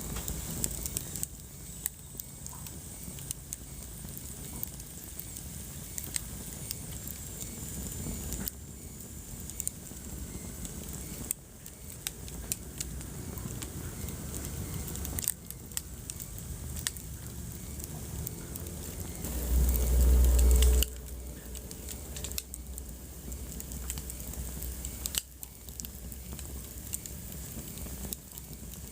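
Wood fire burning in a fireplace, crackling with frequent sharp pops over a steady low rumble of flames. About twenty seconds in, a louder low rumble lasts a second or two.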